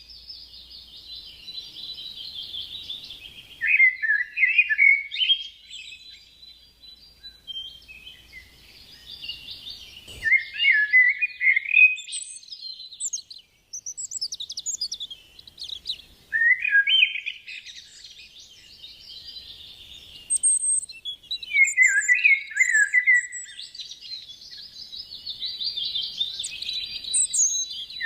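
Budgerigar warbling: a continuous, busy chatter with louder bursts of quick, falling chirps every five or six seconds.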